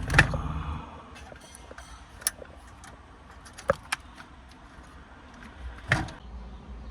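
Sparse plastic clicks and small knocks from car-radio wiring harness connectors and wires being handled and plugged together, with a cluster of clicks at the start and a louder knock near the end.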